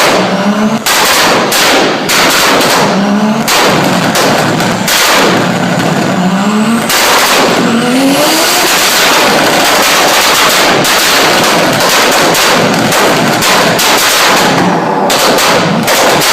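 BMW E30 engine revved in several short rising blips, with sharp exhaust pops and bangs between them, then a long stretch of loud, dense exhaust noise for several seconds.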